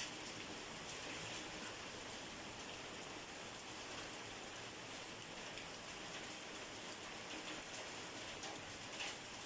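Steady rain falling, a fine even hiss with scattered drops pattering on a surface and one slightly louder drop near the end.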